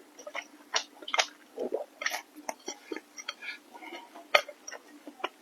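Close-up eating sounds: irregular wet smacks and clicks of chewing food, a few much louder than the rest.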